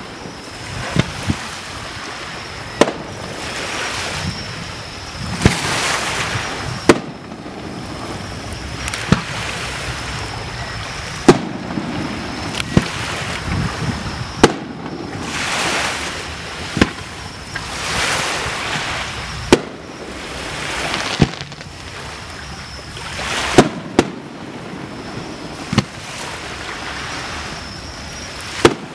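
Aerial firework shells bursting one after another, a sharp bang roughly every two seconds. Between the bangs, a rushing hiss swells and fades.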